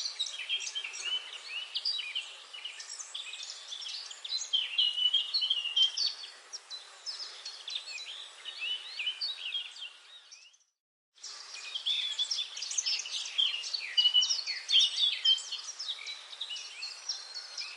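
Dense forest dawn-chorus-like mix of many songbirds chirping and trilling at once over a faint background hiss. The sound cuts out completely for about a second partway through, then the chorus resumes.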